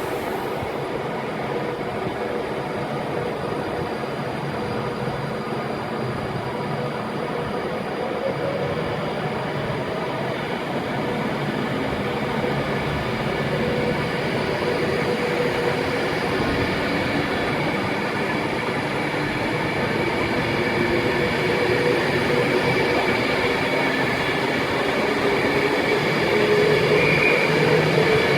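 Train on the line at close range: a steady rumble with a few held whining tones, slowly growing louder toward the end.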